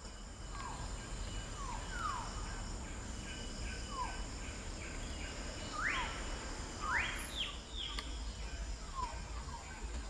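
Wild birds calling in forest: a series of short whistled notes that each slide downward, with two louder calls about six and seven seconds in that sweep up and then fall, over a low steady background noise.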